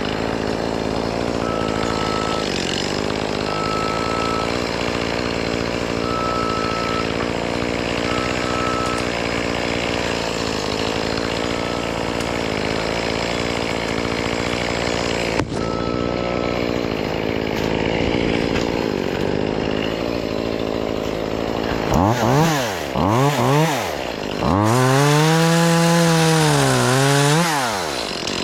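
A small engine drones steadily, with a few short high beeps in the first several seconds. Near the end a chainsaw is revved up and let back down twice, the second rev held for about three seconds.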